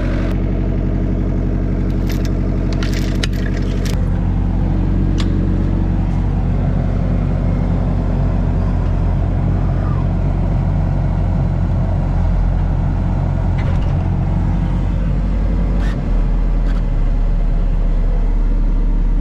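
Mini excavator's diesel engine running steadily, with a few sharp metallic clicks between about two and four seconds in; about four seconds in its note changes and it runs rougher.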